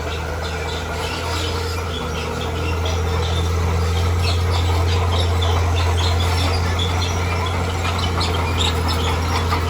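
Heavy earthmoving machine's diesel engine running steadily, getting a little louder about two and a half seconds in, with many short high chirps or squeaks over the drone.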